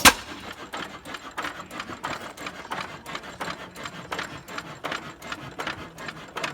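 6 hp Associated hit-and-miss engine running with no muffler fitted: one loud bang right at the start, then steady rhythmic mechanical clicking and clatter as it coasts between firings.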